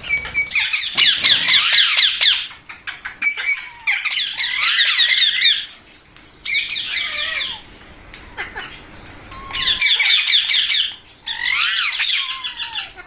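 Rose-ringed parakeets squawking in harsh, rapid chattering bouts, about five bursts with short pauses between them.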